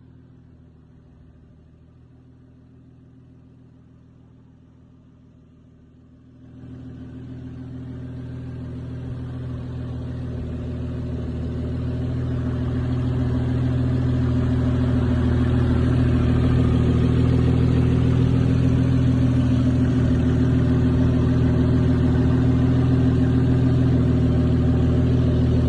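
A car engine idling at a steady, unchanging pitch. It is faint at first, then grows louder from about six seconds in until it levels off about ten seconds later.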